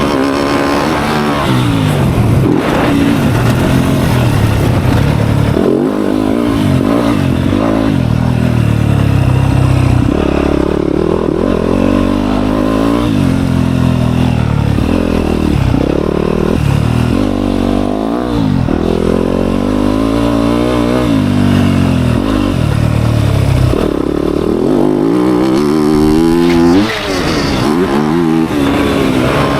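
Dirt bike engine being ridden hard, revving up and dropping off over and over every second or two as the throttle is worked.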